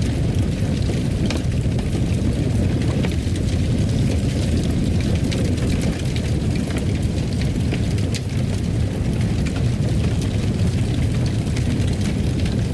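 Fireplace fire burning: a steady low rumble of flames with frequent small crackles and pops.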